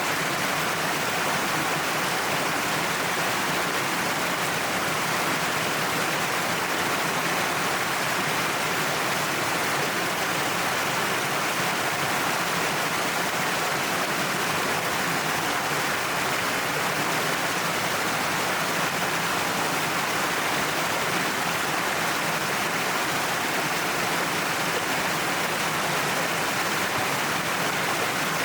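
Waterfall pouring down a cliff face: a steady, unbroken rush of falling water.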